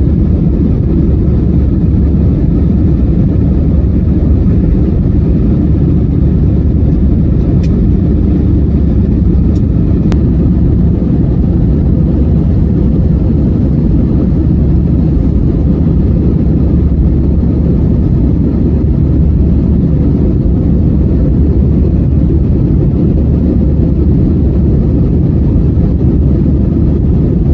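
Steady, loud low rumble of an airliner's engines and rushing air heard inside the passenger cabin during take-off, with a few faint clicks about a third of the way in.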